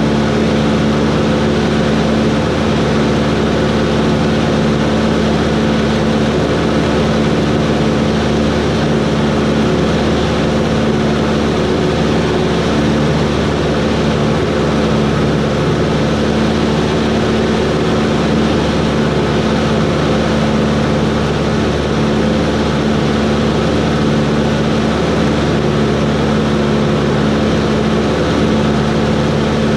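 Cessna 140's light-aircraft piston engine and propeller running steadily, a constant, unchanging drone.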